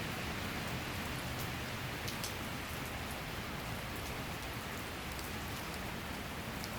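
Steady summer rain shower falling, an even hiss with scattered sharp drop ticks.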